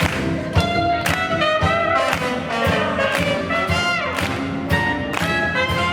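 Live swing jazz band playing, with trumpet and trombone lines over a steady beat.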